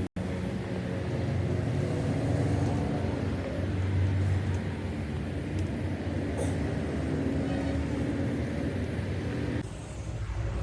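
An engine running steadily, a low, even hum. It is cut in sharply just after the start and drops away shortly before the end.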